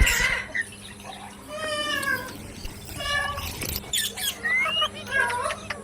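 Pet parrot giving a series of short calls that slide up and down in pitch, with a brief loud bump right at the start.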